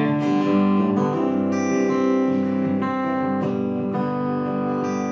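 Acoustic guitar strummed chords ringing out, with fresh chords struck every second or so: the instrumental close of a song.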